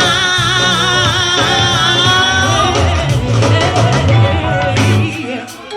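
Live go-go band with a singer holding one long note with vibrato over bass and percussion, then the band continuing; the sound drops away sharply near the end.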